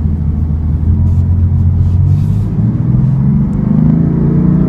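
BMW M4's 3.0-litre twin-turbo inline-six engine running at a steady low note, then rising in pitch as the car accelerates over the second half.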